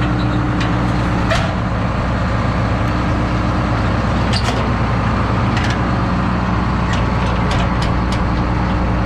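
An engine idling steadily at a constant speed. A few sharp clicks and knocks of hand work on metal parts come through on top, several of them in the second half.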